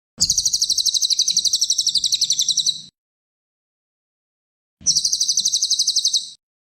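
Cililin songbird singing two fast, high trills of rapidly repeated notes, at about ten notes a second. The first lasts under three seconds and the second, after a pause of about two seconds, lasts about a second and a half.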